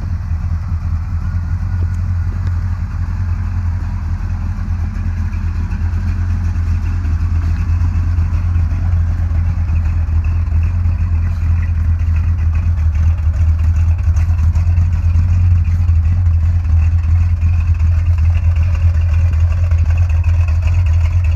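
1984 Chevy C10 pickup's engine running steadily, a low even drone without revving, growing slightly louder toward the end.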